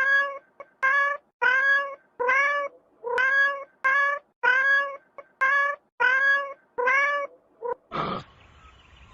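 A cat meowing over and over in quick succession: about a dozen short, evenly spaced meows. They are followed near the end by one short, rough, noisy sound.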